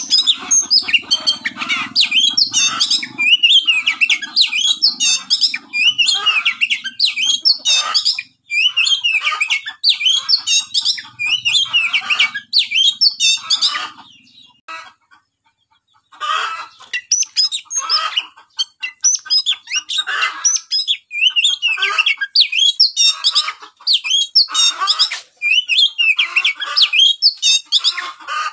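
Birds chirping and squawking in quick, repeated calls, with a pause of about two seconds midway.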